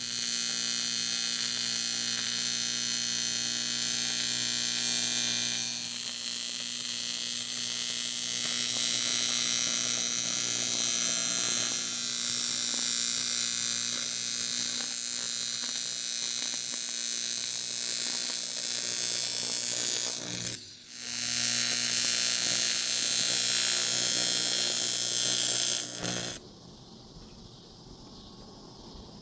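AC TIG welding arc on aluminum turbo pipe, a steady electric buzz. The arc breaks off for a moment about two-thirds of the way through, strikes again, and stops a few seconds before the end, leaving a faint background.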